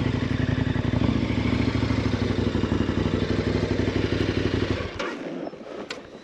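KTM 1090 Adventure R's 1050 cc LC8 V-twin engine idling with an even, pulsing beat, then switched off about five seconds in.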